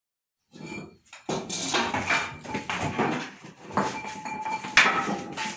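Busy clattering and clinking of metal, many quick knocks close together, with a ringing bell-like tone that comes and goes through it.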